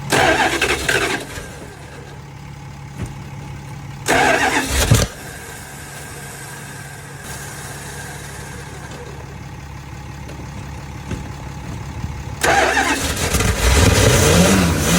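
Cold Dodge Sno-Fiter truck engine being cranked for a reluctant cold start, louder from about twelve seconds in, its pitch wavering up and down as it nearly catches; the oil is thick with cold. Before that a steady low hum, broken by two short loud bursts of noise at the start and about four seconds in.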